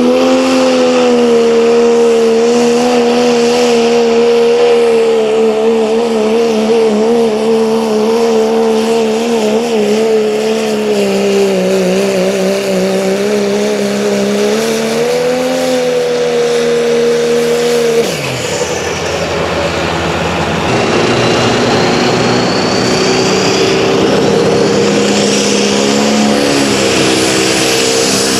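Competition pulling vehicle's engine held at high revs under load, its pitch wavering, for about eighteen seconds, then dropping off suddenly. Afterwards a lower engine note rises again, with a thin rising whine above it.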